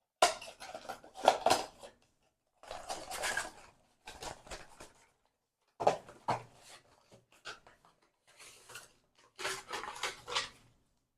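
Clinks and rustles of a reed diffuser bottle and its packaging being handled and unboxed, in several short separate bursts with dead silence between.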